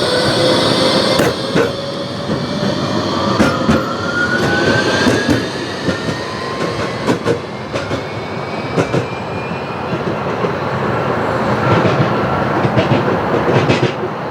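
Tram on the move, its electric traction motors giving a whine that rises slowly in pitch as it gathers speed, over the rumble of steel wheels on rail. Sharp clicks and knocks come from the wheels crossing rail joints, more of them near the end.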